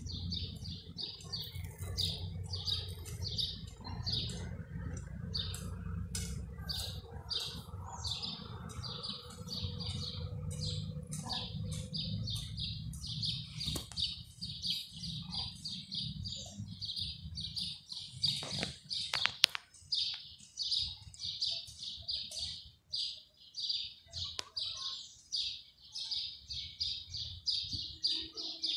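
A bird chirping over and over in a fast, steady run of short chirps, with a low rumble underneath through the first half.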